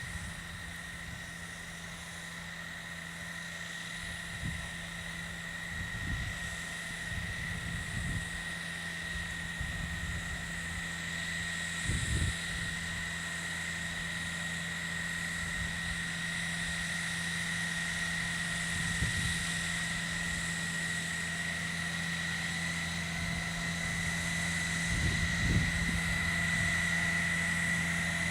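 Case Ingersoll 448 garden tractor running steadily under load while blowing snow with its three-point-hitch snow blower, with a steady whine above the engine note and a few short low thumps.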